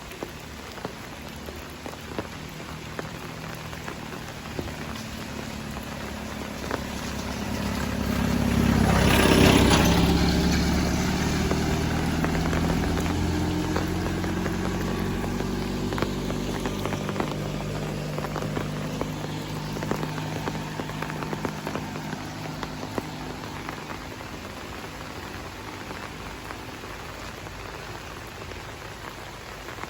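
Steady rain falling with scattered drop clicks. A motor vehicle approaches and passes about nine seconds in, its engine hum and wet tyre hiss swelling to the loudest point and then fading slowly.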